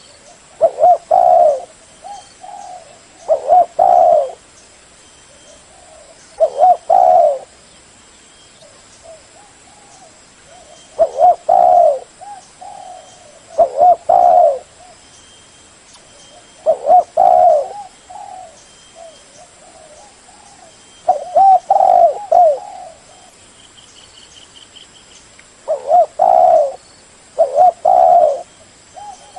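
Spotted dove cooing: phrases of low coos repeat every two to three seconds, each with a loud pair of notes and softer notes between.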